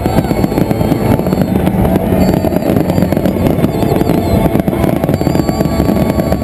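Large fireworks display: dense, continuous bangs and crackling without a break, with faint wavering whistles high up.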